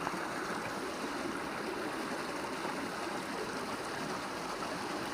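Small river flowing and trickling, a steady rush of water.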